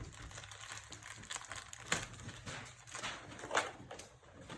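Packaging rustling and crinkling as items are taken out of a box, with a few sharp clicks or knocks, the clearest about two seconds in.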